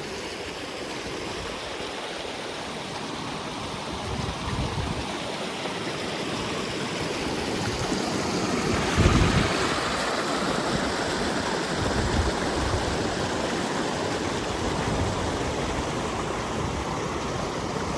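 Mountain stream and waterfall rushing steadily, growing louder about halfway through, with a single low thump near the middle.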